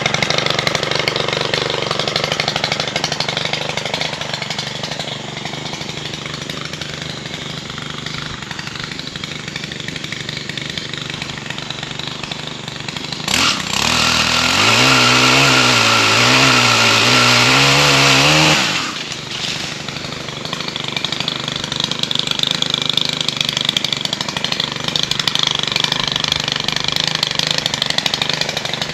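Stihl HT 135 pole saw's small engine running at a lower speed, then revved high for about five seconds halfway through, its pitch wavering under load as the chain cuts a limb, before dropping back to a lower speed.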